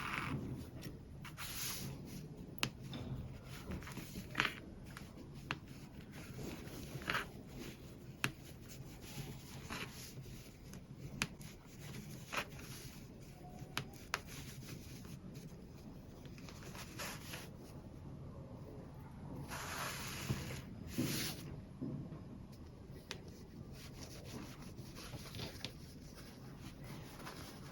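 Hand work with fabric and sewing tools: cloth rustling and rubbing, with scattered small clicks and taps and a longer swishing rub about two-thirds of the way through, over a low steady hum.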